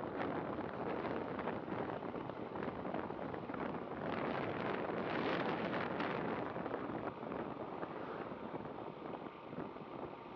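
Motorcycle riding through city traffic heard through a dashcam microphone: steady wind buffeting and road noise over the bike and passing vehicles, swelling a little about four to six seconds in.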